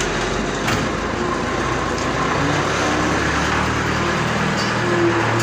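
Truck engine running steadily, getting a little louder about halfway through as it pulls away.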